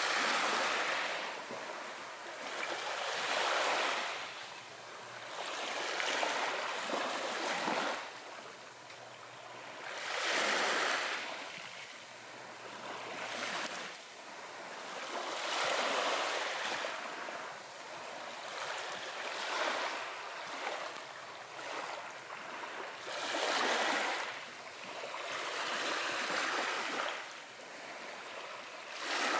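Ocean waves washing in, each one a hissing rush of surf that swells and fades every few seconds.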